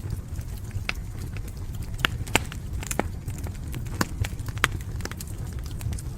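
Wood fire burning in a fireplace: a steady low rumble with irregular sharp crackles and pops, the loudest of them about two and a half seconds in and again near the end.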